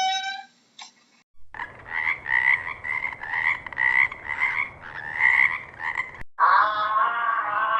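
A frog croaking in a rapid series of repeated croaks for about five seconds. Just before the end, a different, wavering animal call follows.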